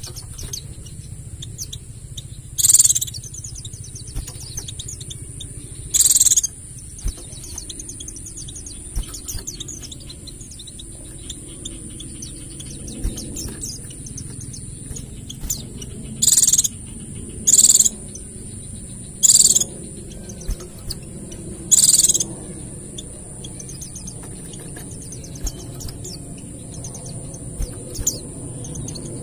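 White-eye (pleci) twittering in a fast, continuous chatter (ngeriwik), broken six times by short, loud, very high-pitched shots (nembak). A steady high-pitched whine runs underneath.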